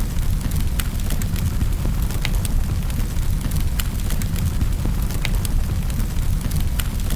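Wood fire crackling in a fireplace: a steady low rumble of the flames with irregular sharp pops and snaps every second or so.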